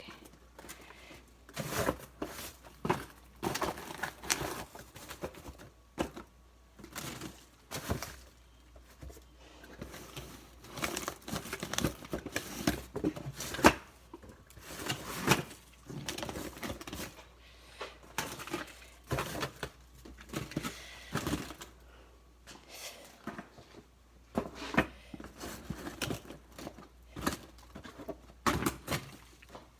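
Frozen food packages being handled and moved around in a freezer: plastic bags crinkling and frozen items knocking against each other and the freezer walls in irregular clicks and thuds.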